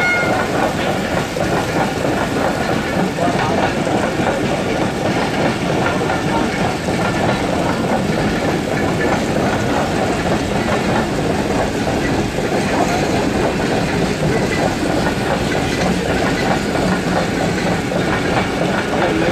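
Passenger train coaches rolling past on the track: a steady rumble with wheels clattering over the rail joints. The tail of the train's horn cuts off right at the start.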